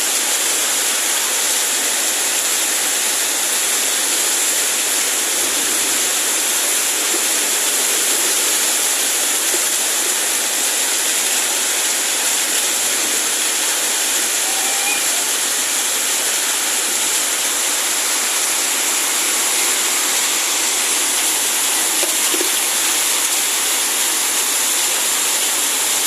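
Heavy rain falling steadily: a loud, even hiss of water.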